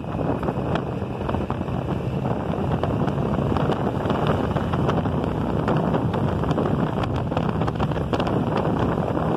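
Wind buffeting the microphone of a phone mounted on a moving motorcycle, a steady rushing noise with brief gusts, the bike's engine running underneath.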